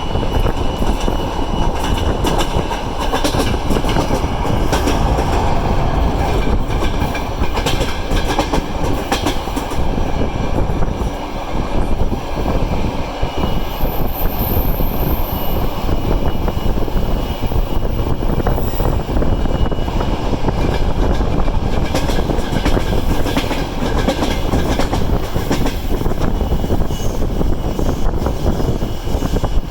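A passenger train running on the rails, its wheels clicking over the rail joints under a steady rumble, with a thin high tone coming and going.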